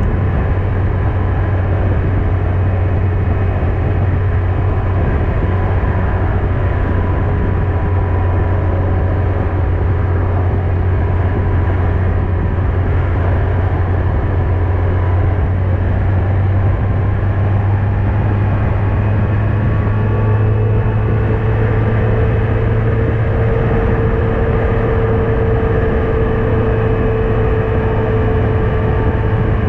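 Yamaha FJR1300AE inline-four engine running steadily at cruising speed, with road and wind noise, growing a little louder about two-thirds of the way through.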